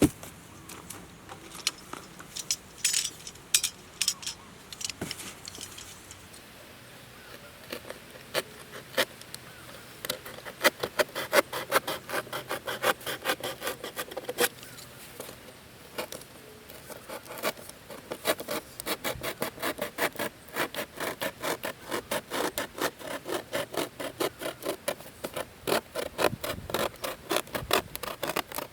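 Rasping strokes of a hand tool working material: a few scattered scrapes at first, then from about ten seconds in a steady run of about three to four strokes a second.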